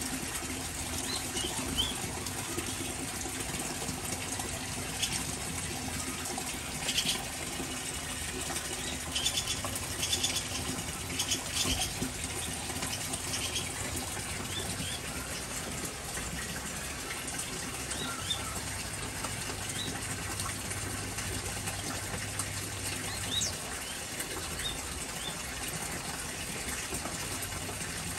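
Steady hiss of rain and water, with small aviary birds chirping now and then. A few quick rattling bursts stand out about seven seconds in and again around ten to twelve seconds.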